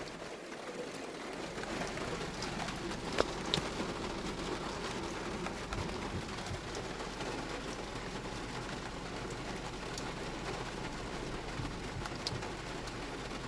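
Heavy rain falling steadily on a car, heard from inside the cabin as an even hiss. A few louder ticks of drops hitting come about three seconds in and again near the end.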